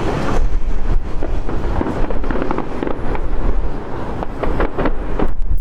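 Fireworks display going off: a rapid run of bangs and crackles, thickest in the second half, over a low rumble of wind on the microphone.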